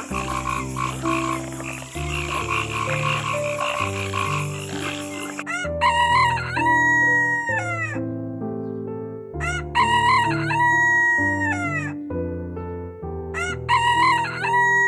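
A chorus of frogs croaking, then a rooster crowing three times, each crow a long call that rises, holds and falls away. Background music with held notes plays underneath.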